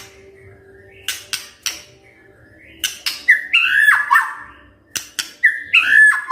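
White-rumped shama (murai batu) singing: sharp clicking notes, then two bursts of quick slurred whistles, about three and five and a half seconds in.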